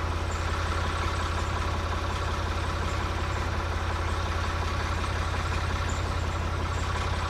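An engine idling steadily, with an even rapid pulse and a strong low hum.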